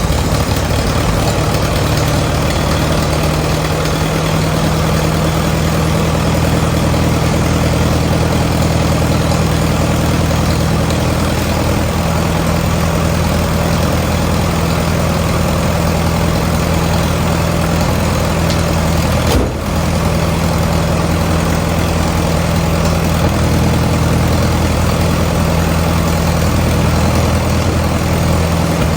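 Ford truck's 6.0-litre Power Stroke diesel idling steadily, with one brief dip and click about two-thirds of the way through.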